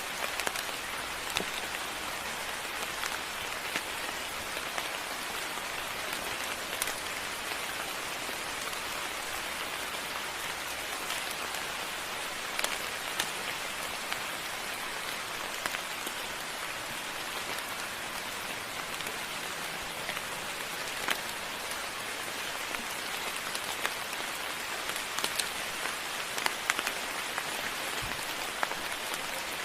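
Moderate rain falling steadily, an even hiss with scattered sharper ticks of individual drops striking close by.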